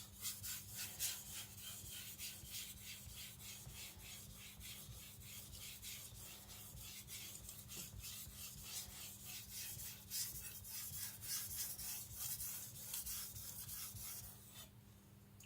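Tojiro white-steel nakiri blade being stroked back and forth on a Naniwa Professional water stone: a quick, even run of scraping strokes under only the weight of the blade, refining the burr, stopping shortly before the end.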